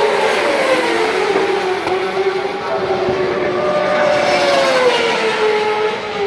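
Racing superbike engines running at high revs as bikes go by. The pitch sinks, climbs again about halfway through, then sinks again near the end.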